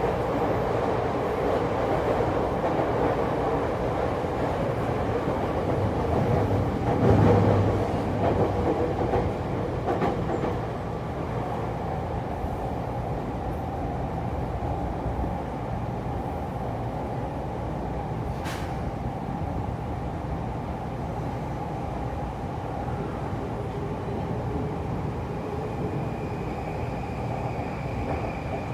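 JR East E231 series electric train running, a steady rumble of wheels and running gear with a few steady tones. There is a loud thump about seven seconds in, a sharp click later on, and a faint high whine near the end.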